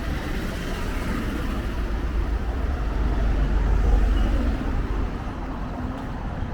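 A motor vehicle passing close by on a town street, its low rumble growing louder to a peak about four seconds in and then fading.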